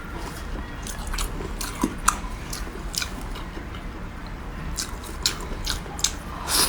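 Close-miked chewing of soft fatty meat: wet mouth clicks and smacks at irregular intervals, with a louder bite near the end.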